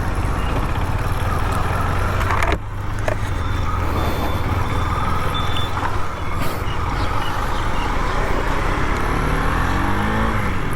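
Motor vehicle running steadily: a continuous low rumble with road noise.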